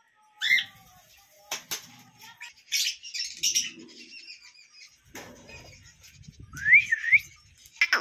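Caged birds chirping: a short rising call about half a second in and a two-note up-and-down chirp near the end, with bursts of wing fluttering and rustling in between.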